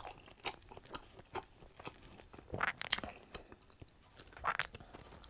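Chewing a mouthful of pizza crust dipped in garlic and herb dip: soft crunching and short mouth clicks, with louder bites about two and a half to three seconds in and again near the end.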